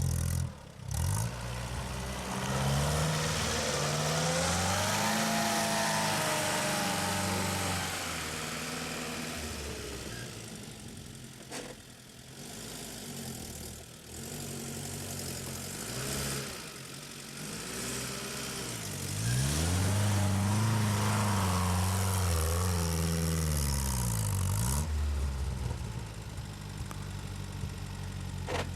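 UAZ off-roader's engine revving hard under load in two long surges, its pitch rising and falling, with a quieter stretch of lower revs between them.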